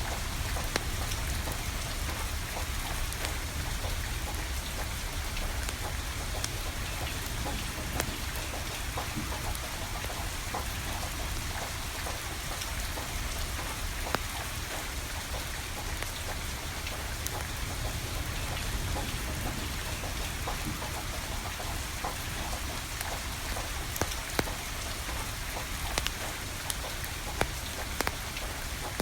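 Steady rain pattering, with a wood fire of burning firewood giving sharp, isolated pops and crackles every few seconds, several of them close together near the end.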